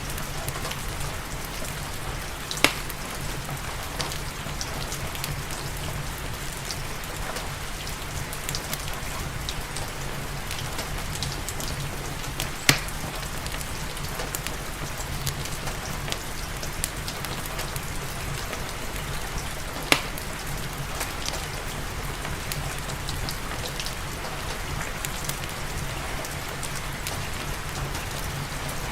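Steady rain falling, mixed with a fireplace crackling: many small ticks and three sharp, louder pops about three, thirteen and twenty seconds in.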